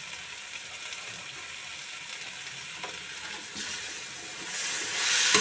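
Sliced bitter gourd frying in a wok over tomato paste, a steady sizzle. Late on, a metal ladle tosses the slices and the sizzle swells louder, with a knock near the end.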